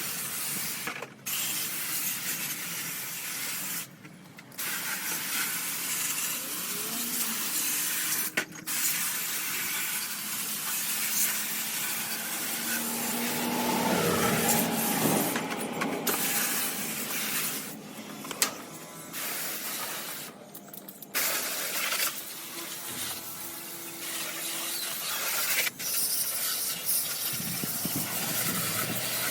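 Water spraying from a hose onto air-conditioner covers and coils, a steady hiss that stops briefly several times.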